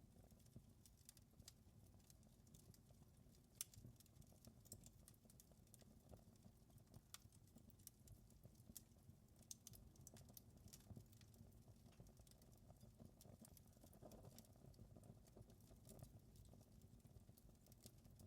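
Faint crackling of a wood fire: irregular small pops and ticks over a low steady rumble.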